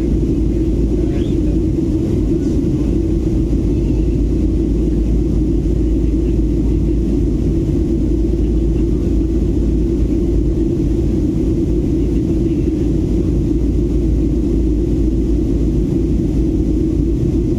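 Steady low rumble of an airliner's engines and airflow heard inside the cabin in flight, unchanging throughout.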